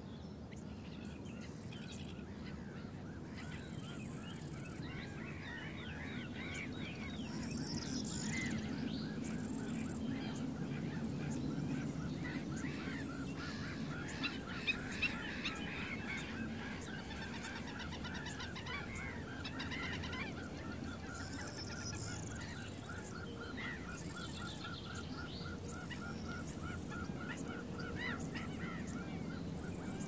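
Outdoor bird chorus: several birds chirping and calling, with one bird repeating a quick, even note over and over through most of it.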